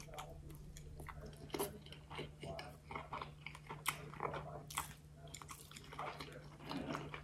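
A person chewing a mouthful of sushi up close, with irregular soft wet clicks and smacks of the mouth. A steady low hum runs underneath.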